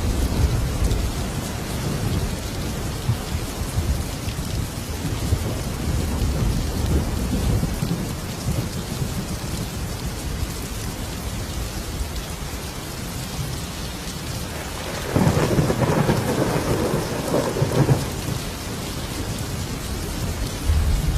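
Thunderstorm: steady rain with low thunder rumbling throughout. A louder thunder peal comes about fifteen seconds in and lasts some three seconds.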